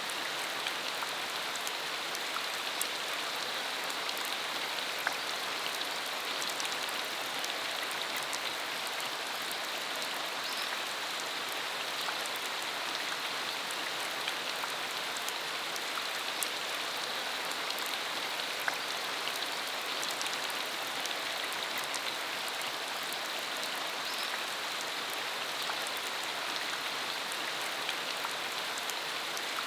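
Steady rain falling, a constant hiss with many individual drops ticking sharply through it.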